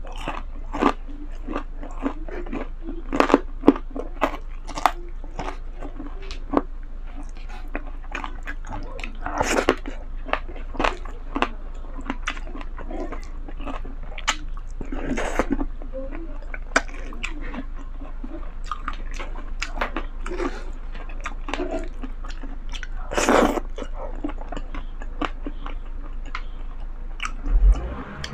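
A person chewing mouthfuls of pancit chami noodles close to the microphone, with many irregular mouth clicks and a few louder bursts.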